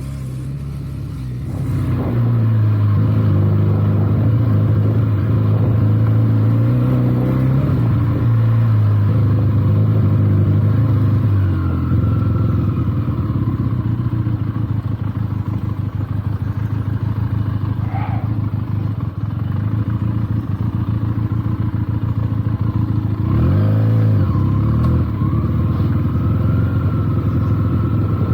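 Benelli TNT 300's parallel-twin engine running while the motorcycle is ridden, its revs rising and falling with the throttle. Near the end the engine speed dips briefly and climbs again.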